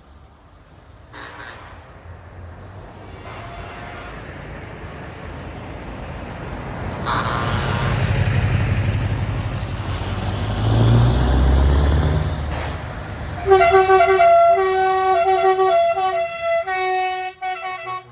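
A heavy truck's diesel engine rumbles, growing louder as it passes, with a short horn sound about seven seconds in. Over the last four seconds a loud truck air horn sounds in several long blasts with short breaks.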